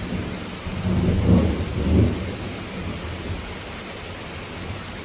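Steady rain falling, with a deep rumble of thunder that swells about a second in and dies away after two seconds.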